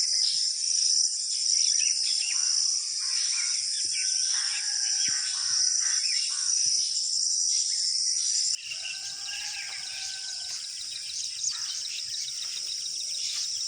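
Crickets trilling in a steady high pulsing chorus, with birds chirping and calling over it. The insect chorus shifts abruptly about eight and a half seconds in.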